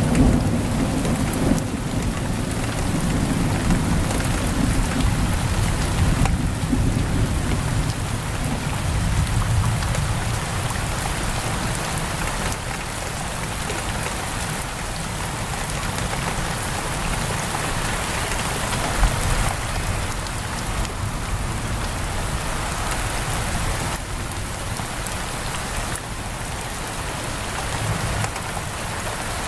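Heavy, steady rain pouring on a window, with a low rumble of thunder in the first part that dies away about ten seconds in.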